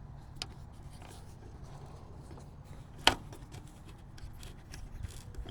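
Hands handling small metal tailgate hardware, faint rubbing and light ticks, with one sharper metallic click about three seconds in.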